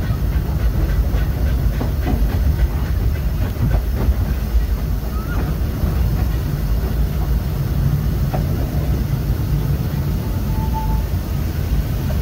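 Disneyland Railroad train, hauled by the steam locomotive Ernest S. Marsh #4, running steadily on the rails, heard from the open coach just behind the tender: a continuous low rumble of wheels with light track clicks, and one brief high tone near the end.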